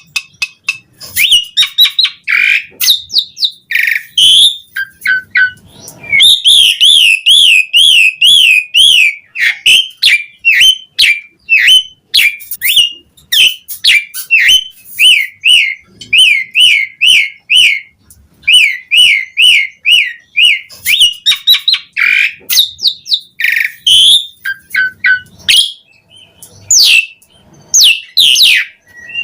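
Javan pied starling (jalak suren) singing a long, varied song: quick runs of warbled trills, short whistles and sharp chips following one another with barely a pause.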